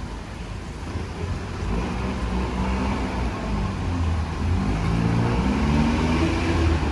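A motor vehicle passing on a rain-wet street: its engine grows louder from about a second and a half in, with tyre hiss on the wet road rising towards the end.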